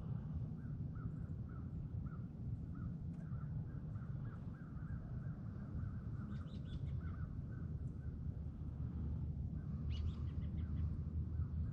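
Birds calling: a call repeated a few times a second throughout, and two brief bursts of higher chirps, about six and ten seconds in, over a steady low rumble.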